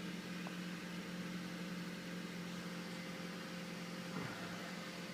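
2009 Honda Accord's VTEC four-cylinder engine idling steadily, a low even hum.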